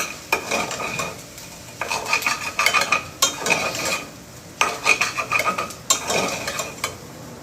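A utensil stirring and scraping through okra stew in a bowl, in repeated bursts with sharp clicks against the dish and a short pause about four seconds in.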